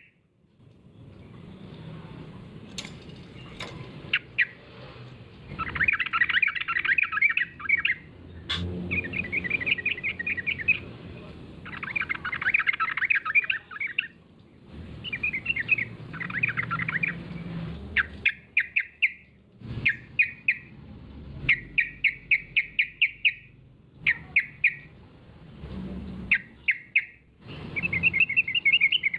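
Yellow-vented bulbul (trucukan) singing in rapid, bubbly chattering phrases, each about one to two seconds long, repeated with short pauses. This is the lively 'gacor' song used as a lure call to draw other bulbuls into answering.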